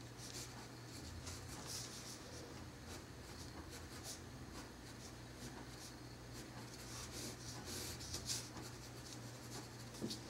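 Pencil scratching on paper in many short, quick strokes as fine lines are sketched, over a faint steady low hum.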